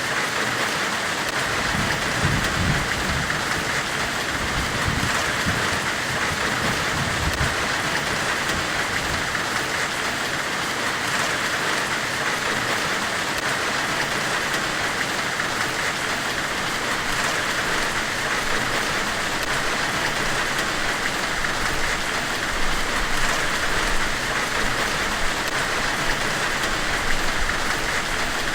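Steady, even hiss of a forge-weld themed white-noise track, brightest in the upper-middle range, with a few low rumbles in the first several seconds.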